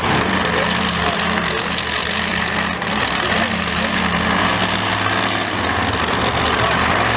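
Large vehicle engine idling steadily, a low, even running note over general background noise.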